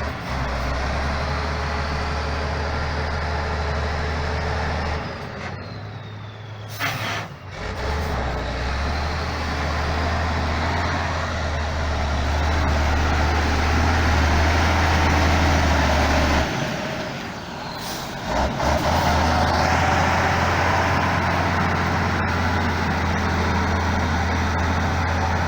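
Heavy off-road competition truck's diesel engine running hard under load, easing off twice briefly before pulling again.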